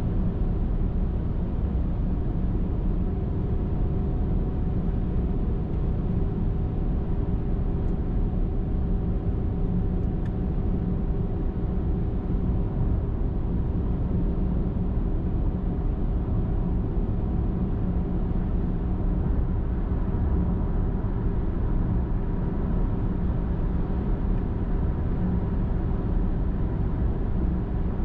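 Steady road noise of a car driving along a highway: low tyre and engine rumble with a faint, even hum running through it.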